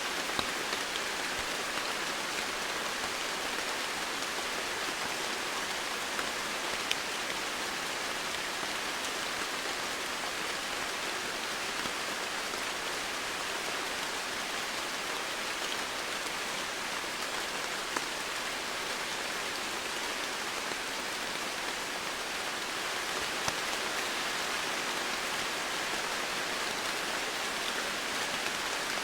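Steady rain falling on foliage and surfaces, an even hiss with occasional distinct drop ticks.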